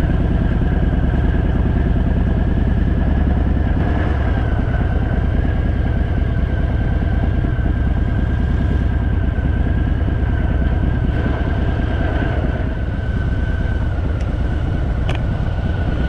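Harley-Davidson Fat Boy's V-twin engine running steadily under way, a loud low pulsing rumble with a steady whine above it.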